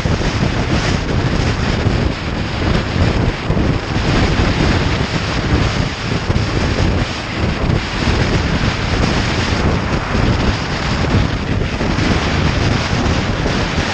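Heavy wind buffeting the microphone of a moving motorcycle: a loud, steady rush with a constant flutter that covers the machine's own sound.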